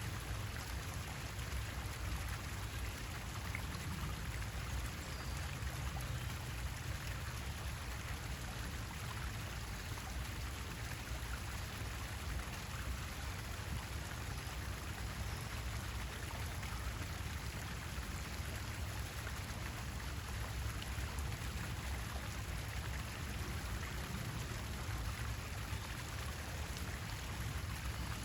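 Steady water noise, like rain or running water, with a low rumble underneath and no clear bird calls.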